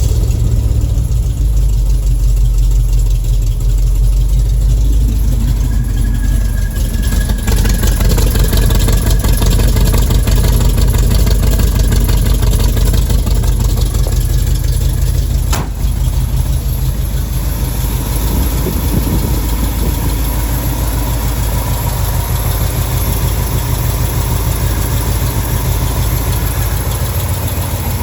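1974 Ford F250 engine with headers idling just after a cold start on choke, with the engine note shifting a couple of times.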